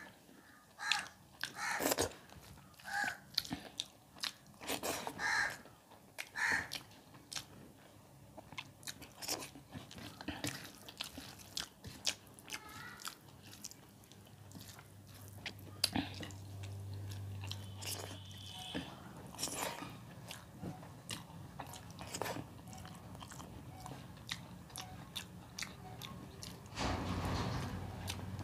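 Close-miked chewing and mouth sounds of a person eating rice and dal by hand: many short, irregular wet smacks and clicks.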